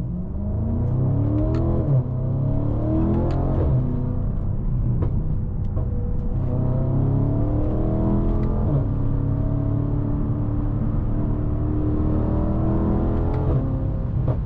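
BMW M550i's twin-turbo V8 accelerating, heard from inside the cabin. Its pitch climbs through the gears, with quick upshifts about two seconds in, near four seconds and near nine seconds. It then holds a long, steady pull and eases off near the end.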